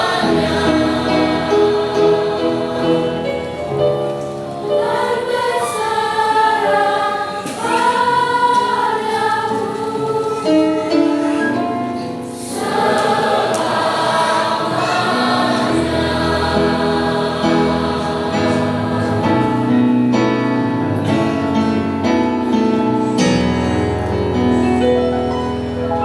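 A school choir of teenage voices singing, with a short pause about twelve seconds in.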